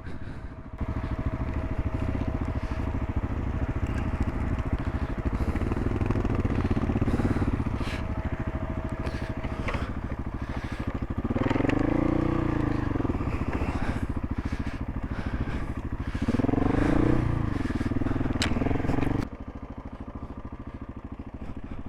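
Single-cylinder dual-sport motorcycle engine running under way, revving up and back down twice in the second half, then dropping suddenly to a lower, even idle near the end as the bike comes to a stop.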